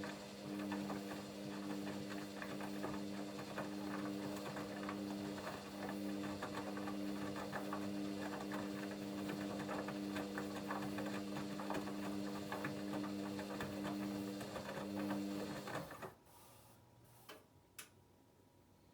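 Hoover Dynamic Next washing machine running its Rapid 14' programme: a steady motor hum with dense clicking and rattling over it, which stops suddenly about three-quarters of the way through, followed by a couple of faint clicks.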